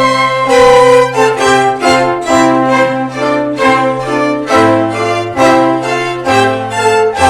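Live orchestra playing a Christmas carol medley, bowed strings to the fore over a strong bass line, the chords moving in short accented steps.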